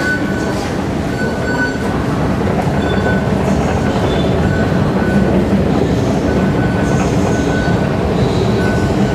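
Steady, loud rumble of an MRT train in the underground station, with a few brief high wheel squeals in the second half. A short high beep repeats about once a second.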